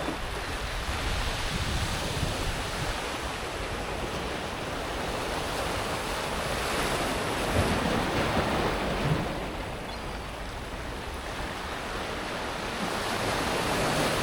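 Mediterranean waves breaking and washing back over a beach of smooth pebbles, the surf rising and falling in swells, loudest a little past halfway.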